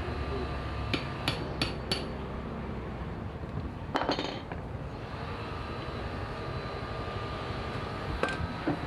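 Hand tools clinking and tapping on the metal parts of an outboard motor under repair: four quick light taps about a second in, a sharper knock near four seconds, and a few more clicks near the end, over a low steady hum.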